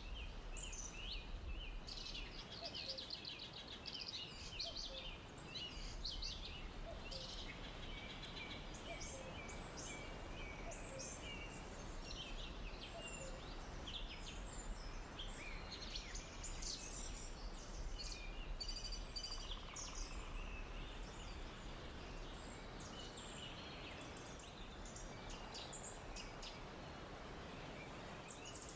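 Forest ambience: many small birds chirping and trilling in quick overlapping calls, over a steady background hiss and low rumble.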